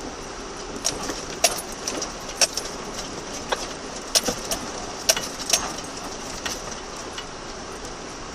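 Off-road vehicle driving slowly over a rough, rocky track, heard inside the cabin: a steady drone of engine and tyres with sharp, irregular knocks and jangling rattles as the vehicle bounces, about a dozen of them clustered between one and six and a half seconds in.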